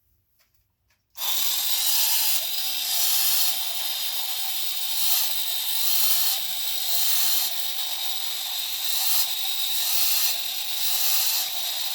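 Vintage battery-operated toy parrot running: its small motor and gears make a harsh whirring noise that starts about a second in and swells and fades about once a second as the mechanism cycles the tail and wings.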